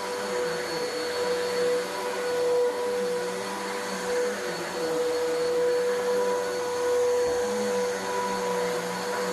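Bissell vacuum cleaner running steadily over carpet, picking up dry soil and lint, its motor giving a steady whine.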